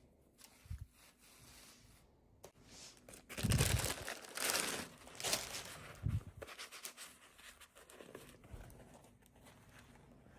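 Packaging being torn open and crinkled by hand: several rustling, tearing bursts, loudest from about three to five and a half seconds in, with a few soft low knocks as it is handled.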